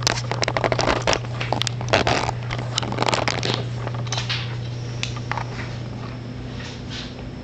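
Dense crunching and crackling clicks for about the first three and a half seconds, then thinning out, over a steady low hum.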